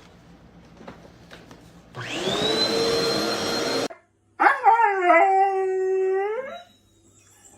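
A vacuum cleaner is switched on about two seconds in, its motor whine rising to a steady pitch, and cuts off abruptly. After a short gap a dog gives one long howl.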